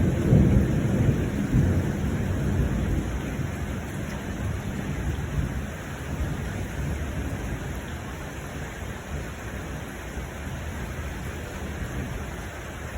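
Steady rain with a rolling peal of thunder, its low rumble loudest at the start and dying away over the first four seconds or so.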